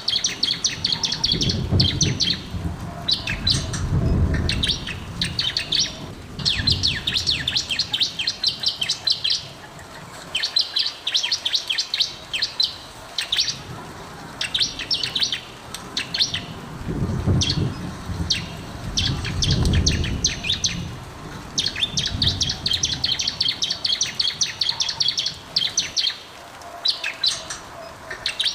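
Bar-winged prinia (ciblek) singing: rapid, high, ticking trills in bursts of a few seconds, repeated after short pauses. A few low rumbles sit underneath.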